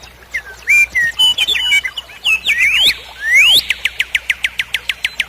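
Songbird singing: a varied phrase of whistled chirps and rising sweeps, then a fast trill of short repeated notes, about eight a second, in the second half.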